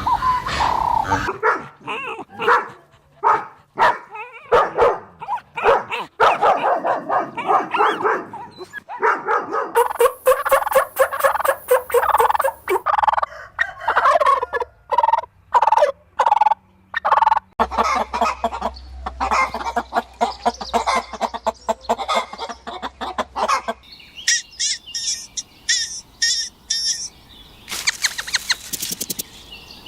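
Domestic turkeys gobbling, repeated rapid rattling calls in many short bursts; the background changes abruptly several times.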